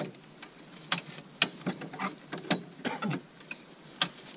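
A series of irregular sharp clicks and knocks, unevenly spaced, some with a short ring.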